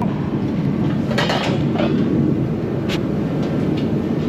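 Steady low mechanical rumble, with a few brief scraping noises about a second in and a sharp click about three seconds in.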